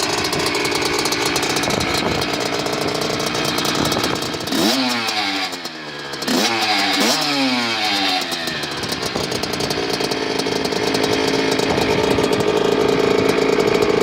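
Kawasaki KX65's 65cc single-cylinder two-stroke engine idling, revved twice in the middle, each rev rising in pitch and falling back to idle.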